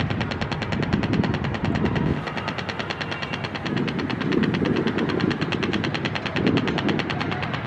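Diesel-electric locomotive engine running hard as the train approaches, a loud rapid pulsing of about ten beats a second over a heavy rumble that swells and eases.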